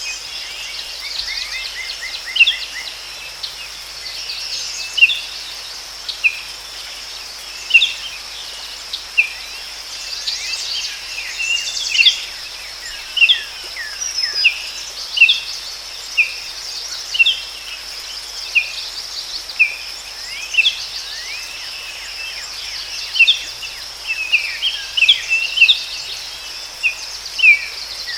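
Forest ambience: birds giving short, sharp falling chirps, roughly one or two a second, over a steady high-pitched insect trill.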